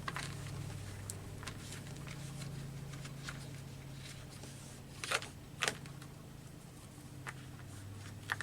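Black ink being wiped out of a craft tool: light scattered rustling rubs and small taps, with two sharper ticks about five seconds in, over a low steady hum.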